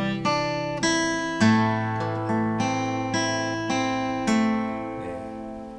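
Acoustic guitar fingerpicked in a slow waltz arpeggio: a bass note with the third string, then single strings plucked in turn, about two notes a second. The last note rings out and fades near the end.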